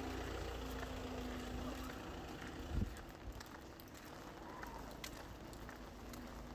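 Rain ambience: a steady hiss with scattered sharp drip ticks. A low rumble and steady hum, like a vehicle nearby, run under it and drop away after a single thump about three seconds in.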